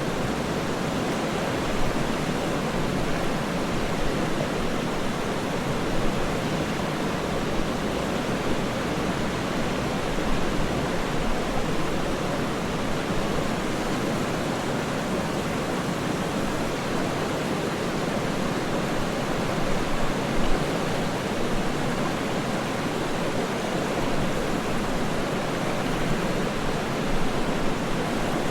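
Waterfall rushing steadily, a continuous even roar of falling water with small irregular swells.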